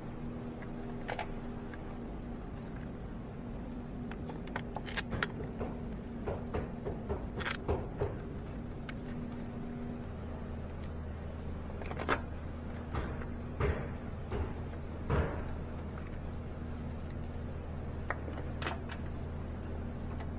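Scattered metallic clicks and clinks of hand tools and car parts being handled, over a steady hum; a lower hum joins about halfway through.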